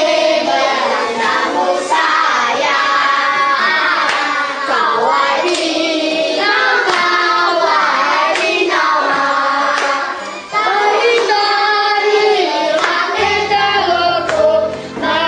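Singing with music: a melody sung through the whole stretch, with a low bass part coming in near the end.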